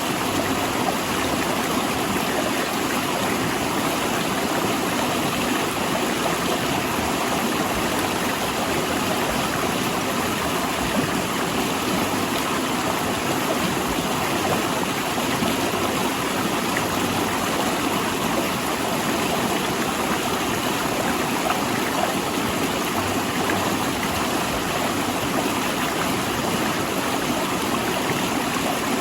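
A rushing river flowing over and between large rocks: a steady, unbroken wash of moving water.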